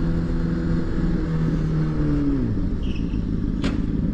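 Car engine running with a steady hum, its revs dropping about two seconds in before it settles into a lower steady note. A single sharp click comes near the end.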